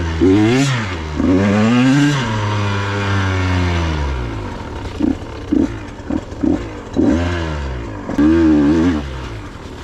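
KTM 125 two-stroke dirt bike engine revving up and down under throttle, with long revs at first, then several short quick blips, then two more revs.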